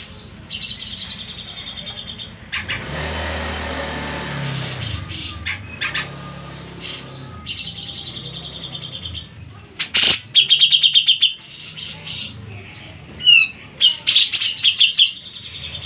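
Cucak jenggot (grey-cheeked bulbul) singing: repeated rapid, buzzy trills of a second or more, with loud sharp chirps about ten seconds in and short falling notes a little later. A low rumble runs underneath from about three to five seconds in.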